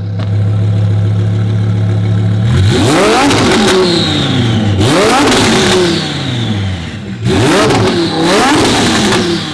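Twin-turbo Lamborghini Huracán V10 idling steadily, then revved in four quick blips about two and a half seconds in and onward, the pitch shooting up and falling back each time.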